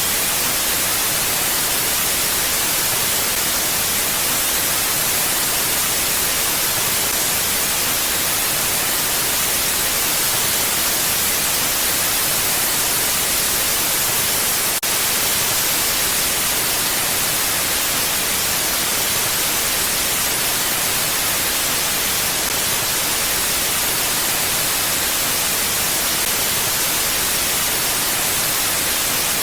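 Steady rushing hiss of mountain wind, even and unchanging with no gusts, brightest in the high end. A single faint click about halfway through.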